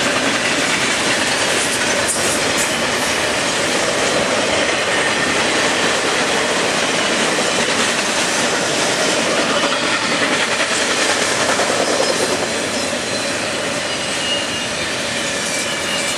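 Double-stack intermodal well cars of a freight train rolling past: a steady, loud rumble and clatter of steel wheels on the rails. It eases off slightly about three quarters of the way through.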